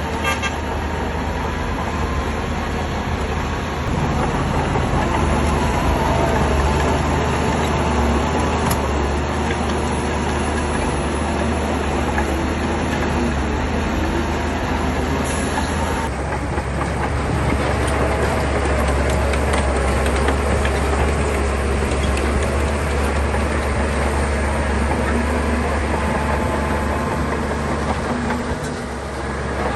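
SHANTUI crawler bulldozer's diesel engine running steadily under load, with the clatter and squeal of its steel tracks. It grows louder about four seconds in and dips briefly near the end.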